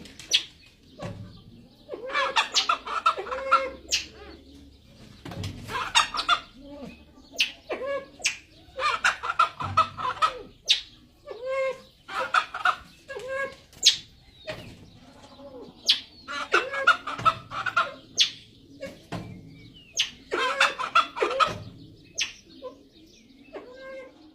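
Grey junglefowl calling: bursts of rapid, clucking notes about a second long, repeated every few seconds, with short sharp clicks between them.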